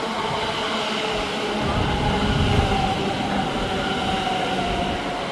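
A train moving along the platform: a steady rumble with a whine of several held tones.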